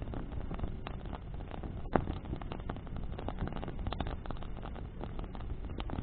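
Bonfire of burning branches crackling, with frequent small pops and one loud snap about two seconds in, over a steady low rush of flames in the wind.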